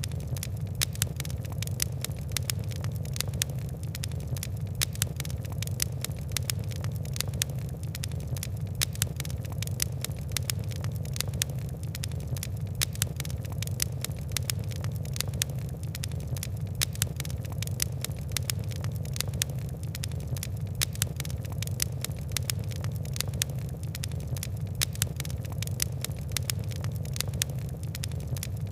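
Fire crackling: many quick, irregular pops and ticks over a steady low rumble of burning.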